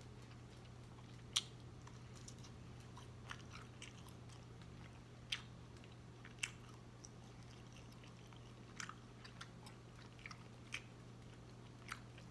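A person chewing pork sausage with the mouth closed: faint wet mouth clicks and smacks, one every second or two.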